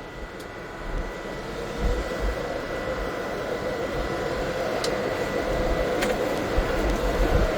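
Diesel-electric locomotive running, its engine note holding steady tones and growing steadily louder as it comes up toward the listener, with a few sharp clicks and wind rumbling on the microphone.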